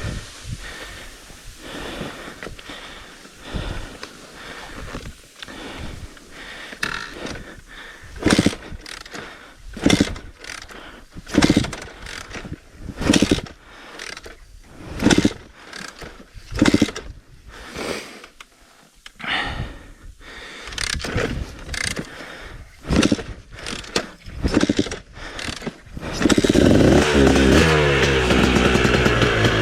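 Dirt bike engine given short stabs of throttle about every second and a half, then held open at high revs near the end, the pitch wavering as the bike climbs.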